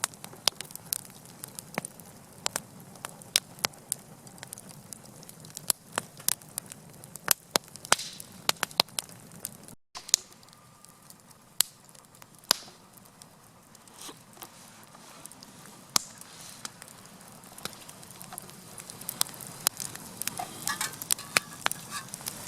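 Wood campfire crackling, with frequent sharp, irregular pops and snaps over a low hiss.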